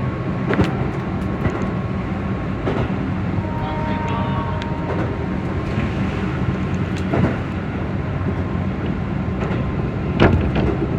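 Keihan electric train running, heard from the driver's cab: a steady rumble with a low hum, and a few sharp clicks from the wheels on the track. The loudest click comes near the end.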